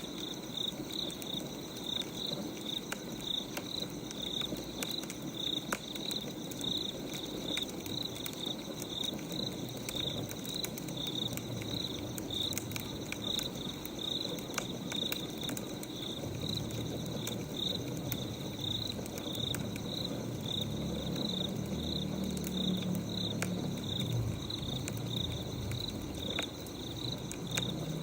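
Crickets chirping steadily, about two chirps a second, over scattered crackles of a burning wood fire. A low rumble joins in about halfway through.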